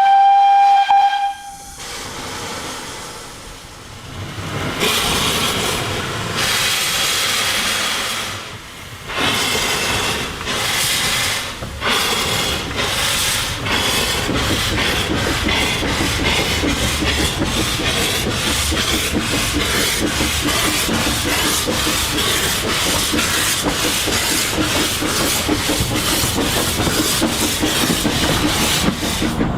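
Kerr Stuart 0-4-2 saddle-tank steam locomotive's whistle, ending about a second and a half in, then steam hiss as it starts its train away. Slow exhaust chuffs follow and quicken steadily as the engine gathers speed.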